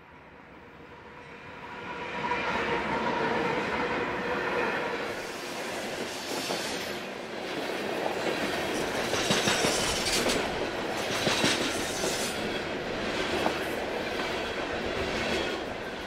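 A Union Pacific diesel-hauled freight train passing close by. The locomotives grow louder over the first couple of seconds as they approach and go past, then the freight cars roll by with their wheels clacking over the rail joints.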